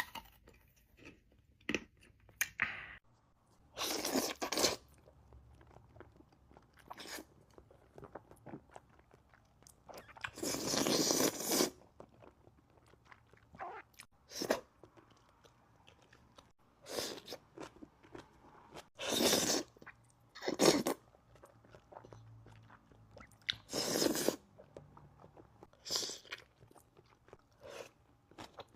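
Close-miked eating: crunchy bites and chewing, with a dozen or so louder bursts spaced irregularly, the longest lasting about a second and a half near the middle.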